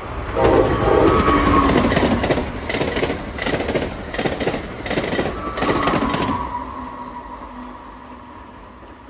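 Amtrak train led by an ACS-64 electric locomotive passing at speed. A horn sounds for about two seconds near the start, then the wheels clack rhythmically over the rail joints, about one knock every 0.7 s. The passing sound fades over the last few seconds, leaving a faint steady tone.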